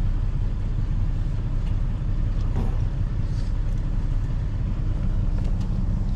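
A vehicle engine idling, a steady low rumble with a few faint ticks over it.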